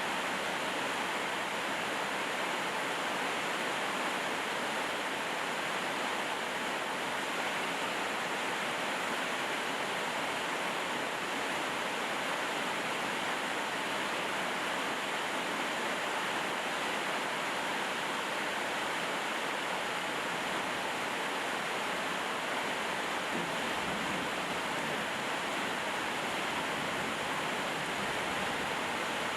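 Steady rainfall: an even, unbroken hiss of falling rain with no separate drops or breaks standing out.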